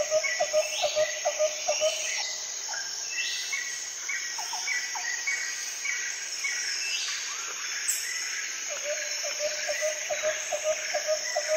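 Forest ambience: a steady high-pitched insect drone with repeated buzzing swells every few seconds, and birds calling over it. The bird calls are short chirps about three times a second, plus a quick run of low pulsed notes at the start and again from about nine seconds in.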